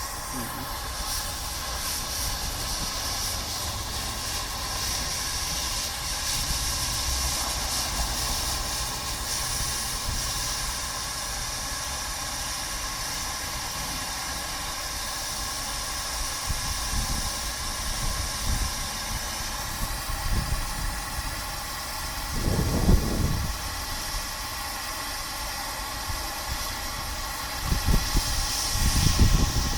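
A 1925 steam locomotive hissing steam steadily over a low rumble. Louder, rougher low rushes of sound come about two-thirds of the way in and again near the end.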